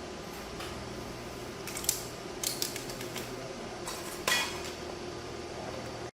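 Metal parts or tools clinking and clattering a few times, the sharpest clink about four seconds in, over a steady low hum.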